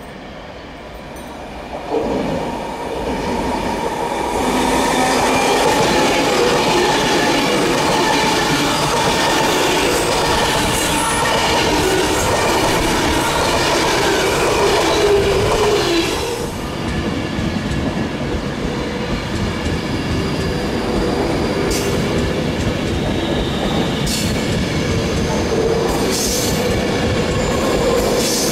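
Avanti West Coast Class 390 Pendolino electric train running close past along the platform: a sudden rush about two seconds in, then the loud steady rumble and clatter of its wheels on the rails, which drops away suddenly once the last car has gone by. A CrossCountry Voyager diesel unit is then heard approaching, its sound rising a little toward the end, with a few sharp ticks.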